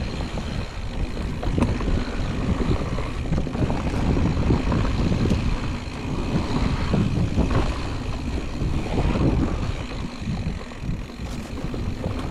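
Mountain bike riding down a dirt trail, picked up by a helmet or bike-mounted GoPro: a steady low rumble of wind and tyre noise with irregular rattling and clattering over rough ground.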